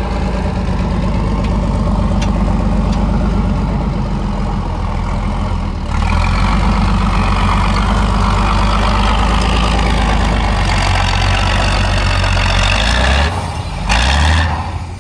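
Heavy truck-trial truck's diesel engine running hard under load, stepping up louder about six seconds in. Near the end it drops away briefly, and a short burst of hiss follows.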